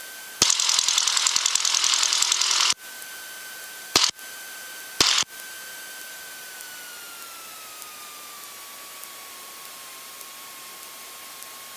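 Light airplane's headset intercom during taxi: cabin engine noise bursts through for about two seconds as the intercom opens, then cuts off, and two short pops follow a second apart. Under these runs a thin steady whine through the audio system, which slowly drops in pitch about halfway through and then holds.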